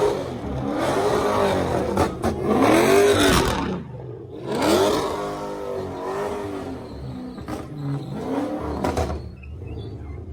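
A vehicle engine revving hard, its pitch climbing and falling again in about five swells, with a loud rushing hiss over it.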